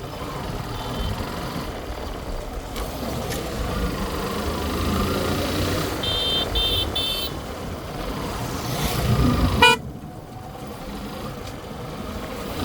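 Road traffic noise with a vehicle horn tooting three short times about halfway through, then a brief, louder horn blast near the end.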